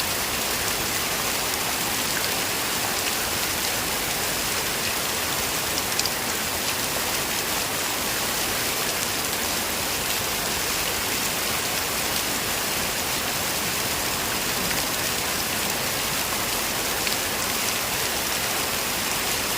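Heavy rain falling steadily, an even dense hiss, with one sharper tap about six seconds in.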